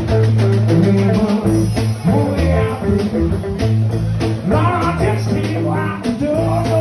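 Blues band playing: a bending electric lead guitar over a steady bass line and drums.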